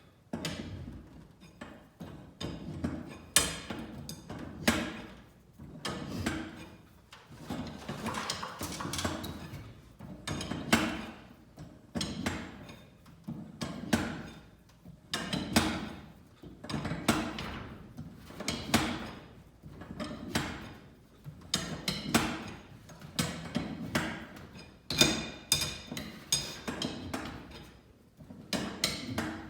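Steel winding bars clanking in and out of the sockets of a garage door torsion spring's winding cone as the spring is wound a quarter turn at a time, a cluster of metal knocks about once a second.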